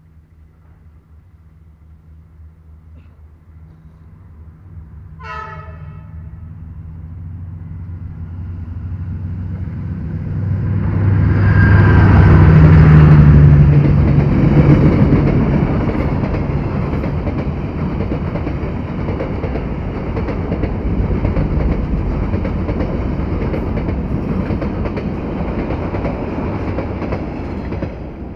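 Diesel-hauled passenger train passing close by. The locomotive's hum grows louder, with one short horn blast about five seconds in. The locomotive goes by loudest around twelve to fourteen seconds in, followed by the steady running noise of the passenger coaches, which drops away near the end.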